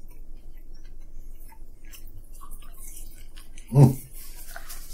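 Quiet chewing and small clicks from handling fried chicken nuggets and paper food boxes, with one short vocal sound from the man about four seconds in.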